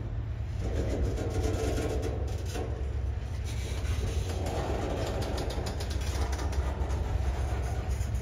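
A train passing, with a steady low rumble and irregular clicking from the wheels on the rails that picks up about two seconds in.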